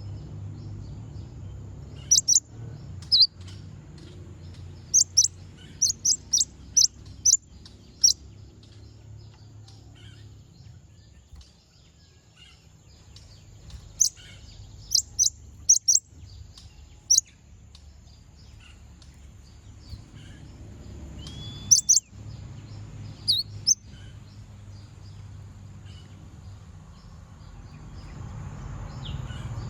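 Brown-throated sunbird (konin) giving sharp, high chirps in quick runs of several notes with pauses between them. It is a calling-out call meant to provoke a rival. A steady low hum runs underneath.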